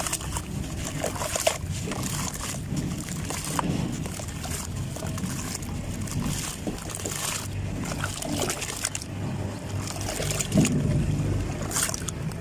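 Clumps of sand-cement or dried dirt crumbling and crunching in an irregular run of crackles, over a steady low rumble.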